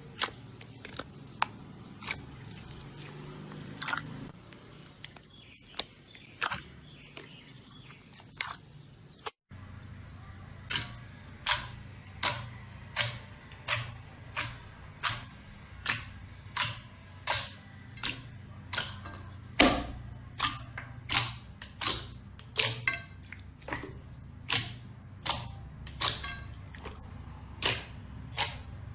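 Slime being pressed and poked, giving sharp, crisp pops. They come irregularly at first, then after a brief break about nine seconds in, evenly at about three every two seconds.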